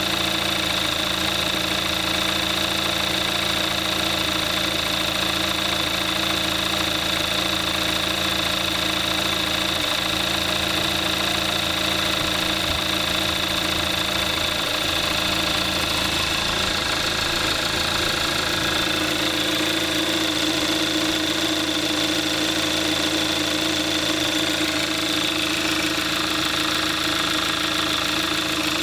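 A 2014 Kia Forte5's 2.0 GDI four-cylinder engine idling steadily a few minutes after a cold start, at about 22,700 miles on conventional 5W-20 oil. Its tone shifts slightly about two-thirds of the way through.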